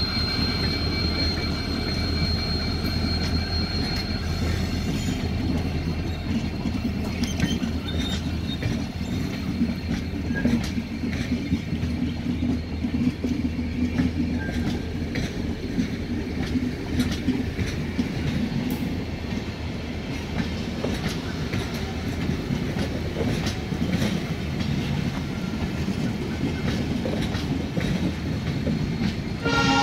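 Express train's passenger coaches rolling past at close range as the train arrives, a steady rumble with the wheels clicking over rail joints. A thin wheel squeal sounds over the first few seconds, then fades.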